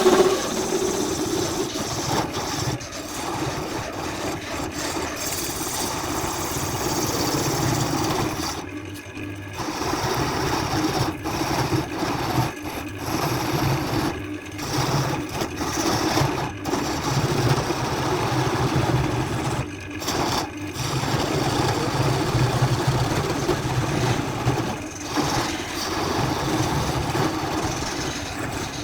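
An electric workshop machine motor running with a steady low hum. The sound drops out briefly several times.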